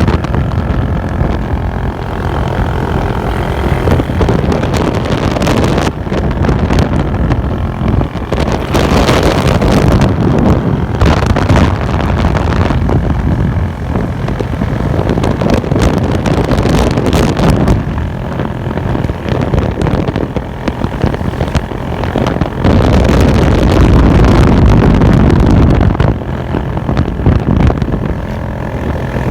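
Modified Bajaj Boxer motorcycle being ridden, its single-cylinder engine running loud through a modified exhaust. The engine note rises and falls, loudest about three-quarters of the way through, with wind buffeting the microphone.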